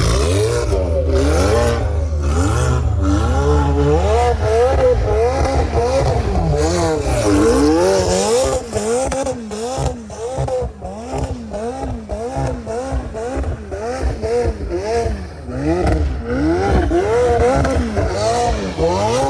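Ferrari F12's V12 engine revving up and down over and over while the car spins donuts in snow, its pitch rising and falling roughly once a second.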